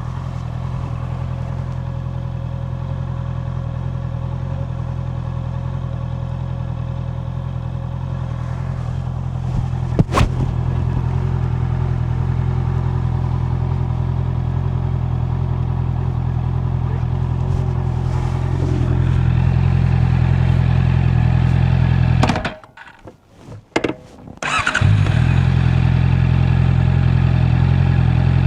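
Honda CB650R's inline-four engine idling steadily, heard from a microphone in the rider's back pocket, with one sharp click about ten seconds in. Near the end the engine sound stops for about two seconds, then the engine runs again.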